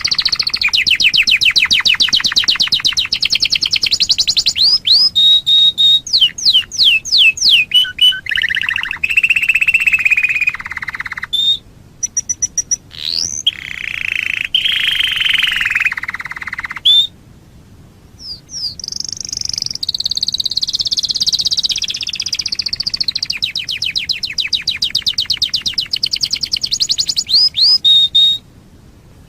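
Domestic canary singing: long, fast trills of rapidly repeated notes, sweeping whistled glides and lower rattling rolls, with two short pauses between phrases.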